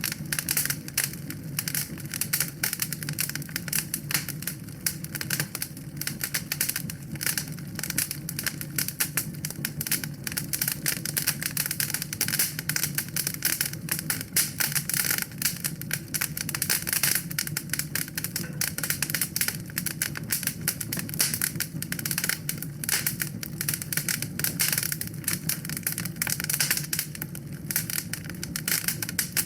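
Wood fire burning in a fireplace, crackling continuously with dense rapid pops and snaps over a low, steady rush of flame.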